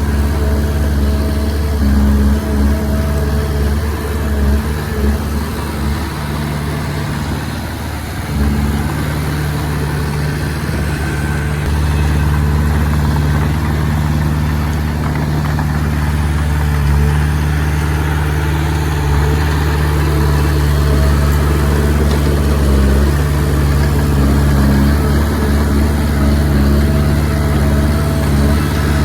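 Diesel engine of a Komatsu D20P bulldozer running steadily while it works. It eases off a little about seven seconds in, then picks up again.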